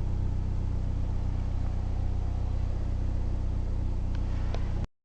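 Mazdaspeed3's 2.3-litre turbocharged four-cylinder engine idling steadily, heard as a low hum from inside the cabin, with a few faint clicks; it cuts off suddenly near the end.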